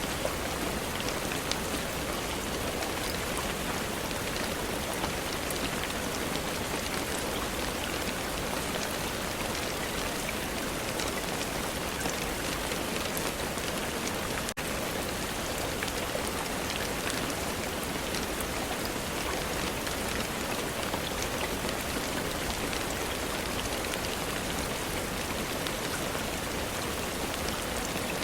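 Steady rain falling, an even hiss with scattered individual drops ticking on a surface. It dips briefly about halfway through, then carries on unchanged.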